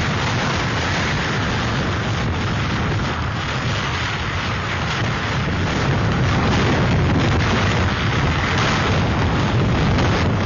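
Hurricane-force wind and driving rain: a dense, continuous rushing noise buffeting the microphone, growing a little louder about six seconds in.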